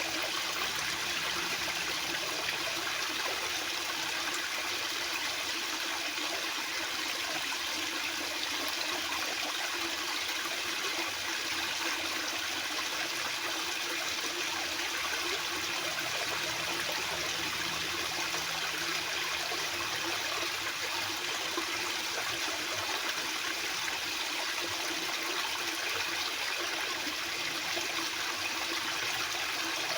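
Fast-flowing water rushing steadily, a constant splashing hiss.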